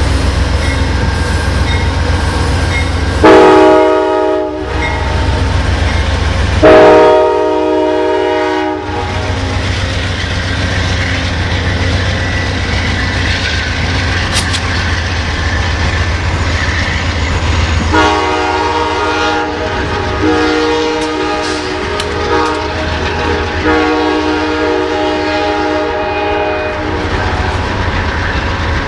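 Departing Amtrak passenger train with a P42DC diesel locomotive: a steady rumble of the train rolling over the rails, with two loud horn blasts about three and seven seconds in. Three more, fainter horn blasts follow in the second half as the train draws away.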